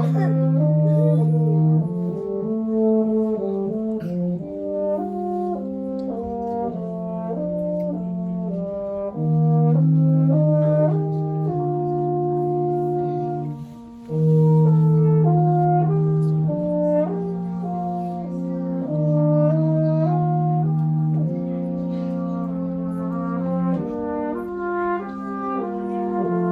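Brass quartet playing a slow passage, with long held low notes under moving upper parts. The music breaks off briefly a little past halfway, then resumes.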